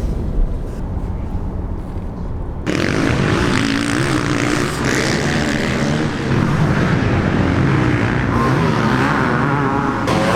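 A low vehicle rumble, then an abrupt cut about two and a half seconds in to several motocross bike engines running and revving, their pitch wavering up and down.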